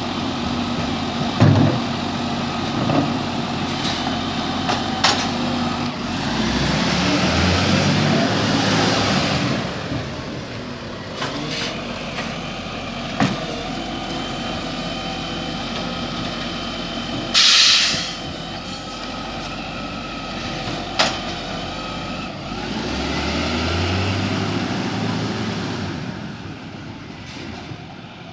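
Garbage truck's diesel engine running, revving up twice, with sharp knocks and bangs and a short air-brake hiss shortly before the middle.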